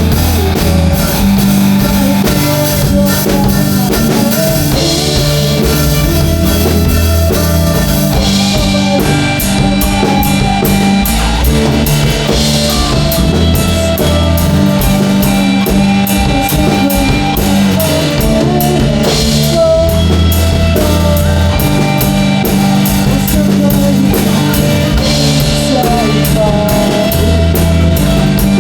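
Rock band music with a drum kit and guitar over steady bass notes. The drums turn into a dense, even beat about eight seconds in.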